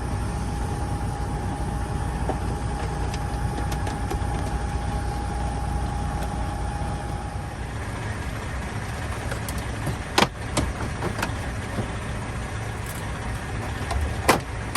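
Truck engine idling with a steady low rumble, a thin steady tone over it that stops about halfway through, and two sharp clicks near the end.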